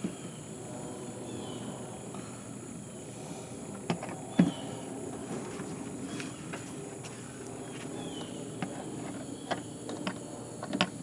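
Scattered sharp knocks and clinks, the loudest about four and a half seconds in, over a steady insect drone and a few short falling bird chirps.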